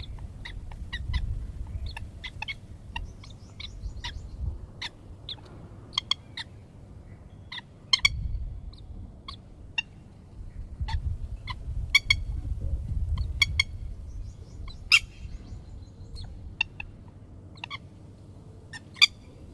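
Red-wattled lapwing calling: many short, sharp notes, irregularly spaced and sometimes in quick runs, a few much louder than the rest. A low rumble runs underneath.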